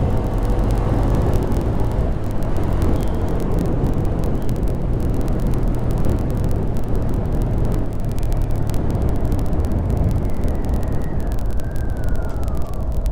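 Honda Grom 125's single-cylinder engine running under way, with a steady low rumble and wind rushing over the microphone. A faint high tone slides down in pitch near the end.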